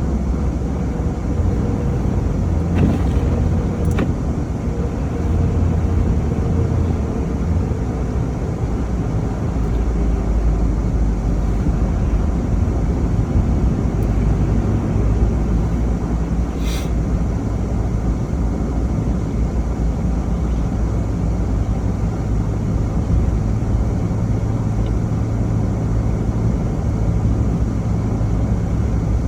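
Steady low rumble of a car driving: engine and road noise. A brief high chirp is heard about two-thirds of the way through.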